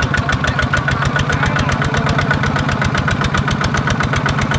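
Small Kubota tractor's diesel engine running steadily with a fast, even knock.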